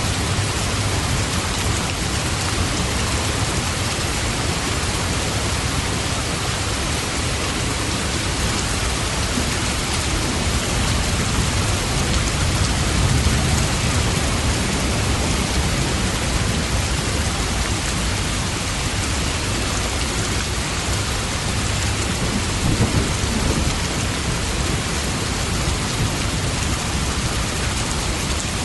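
Steady rain falling, an even hiss, with low rumbles of thunder swelling under it around the middle and again past twenty seconds.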